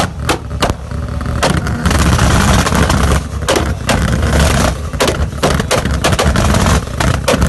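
Nissan Skyline R32 GT-R's twin-turbo straight-six being revved hard, with repeated sharp cracks through the engine noise.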